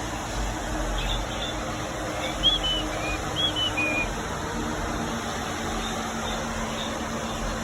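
Small birds giving short, high, arched chirps, a handful of them between about one and four seconds in, over a steady background hum.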